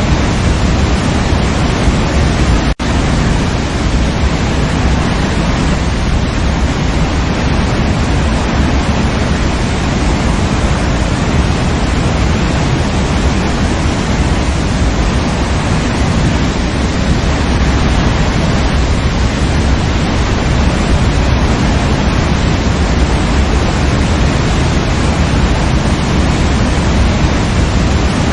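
Waterfall: a loud, steady rush of falling water, heaviest in the low end, broken by a momentary gap about three seconds in.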